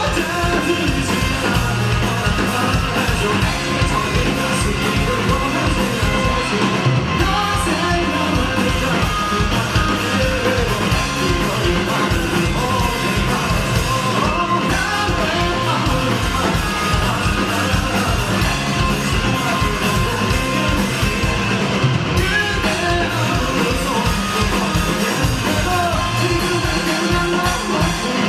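Rock band playing live with a singer: steady driving drums, guitars and vocals.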